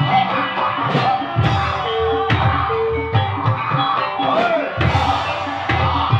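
Live ebeg dangdut kreasi music: drums beating under sustained melodic instrument notes.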